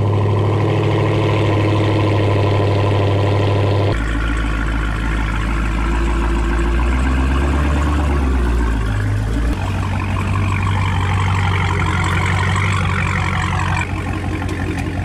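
Dodge Challenger SRT Hellcat's supercharged 6.2-litre HEMI V8 running just after being started, a loud, deep, steady idle as the car creeps along; the drone drops to a lower pitch about four seconds in.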